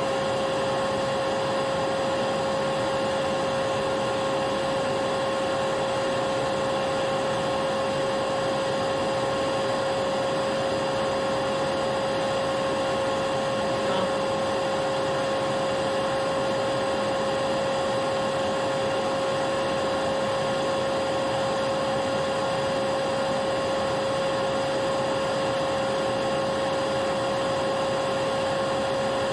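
Vacuum cleaner running steadily: a constant motor whine over the rush of air, unchanging throughout.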